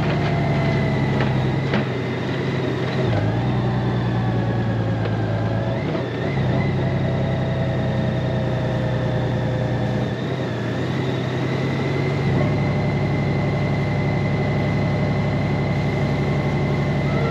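Honda Gold Wing flat-six engine running under way, with road and wind rush; the engine note changes in steps a few times.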